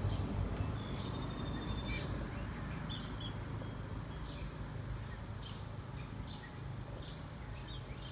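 Wild songbirds chirping in short, scattered calls, with one held high whistle about a second in, over a steady low background rumble.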